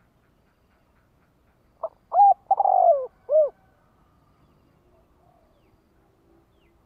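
Spotted dove cooing one call phrase about two seconds in: two short coos, a longer coo falling in pitch, then a last short coo. This is the call of a decoy dove used to lure wild doves.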